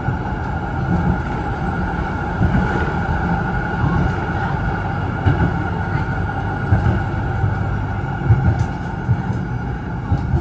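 Z3-class tram running along the track, heard from inside the car: a steady rumble and running noise with a few irregular low knocks.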